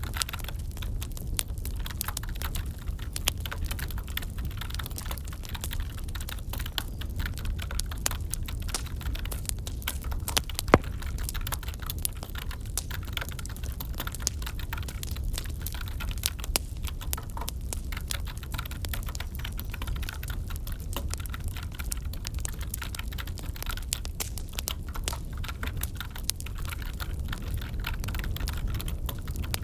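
Wood fire crackling in a fireplace with irregular small pops over a low steady rumble, mixed with computer keyboard typing. One sharp crack stands out about eleven seconds in.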